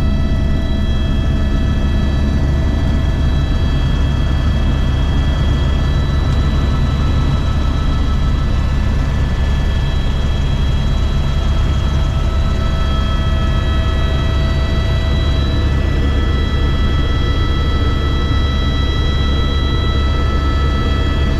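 Helicopter running steadily: the rotor's deep, even drone under the high whine of its turbine engine, several steady tones holding pitch throughout.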